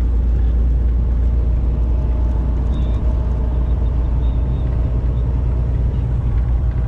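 Tractor-trailer's diesel engine and drivetrain running, a steady low rumble heard from inside the cab as the truck drives.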